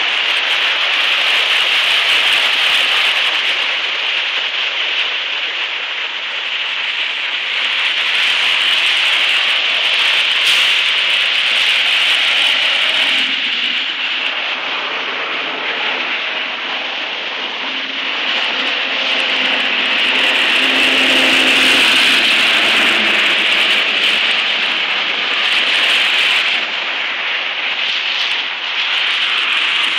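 Steady rushing hiss of floodwater running along a flooded street, mixed with car tyres swishing through the standing water. A passing vehicle's engine hum joins in the middle and fades out.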